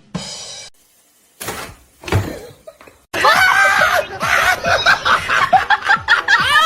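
People laughing hard, starting about halfway through and continuing loudly to the end, after a few brief noises in the first half.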